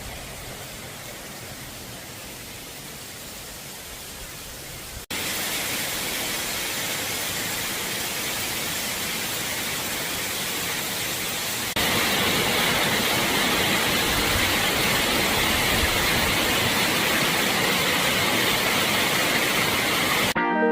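Steady rushing of running water, in three stretches joined by abrupt cuts about five and twelve seconds in, each louder than the last.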